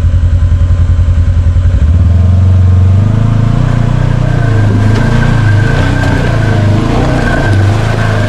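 Side-by-side UTV engine idling with an even pulsing beat, then revved about two seconds in and held under load as the machine is driven forward over rough trail.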